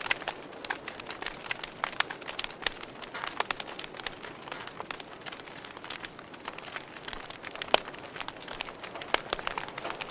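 Wood fire burning in a fireplace, crackling with a soft steady hiss and frequent irregular pops, one sharper pop about three-quarters of the way through.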